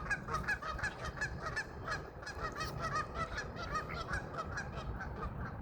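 A flock of geese honking as they feed, with many short calls overlapping, several a second.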